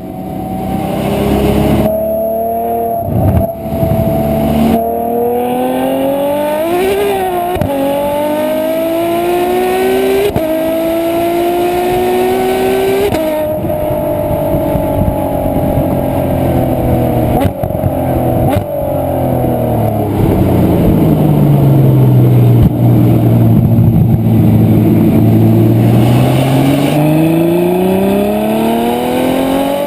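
Ferrari F12 Berlinetta's V12 engine accelerating hard, its exhaust note rising in pitch and dropping sharply at two upshifts, about ten and thirteen seconds in. It then falls slowly to a low note as the car eases off, and climbs again near the end.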